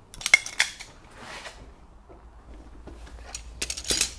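Knocks and clatter from a stair template being handled and taken off a winder string: a few sharp knocks near the start, then a louder cluster of knocks near the end.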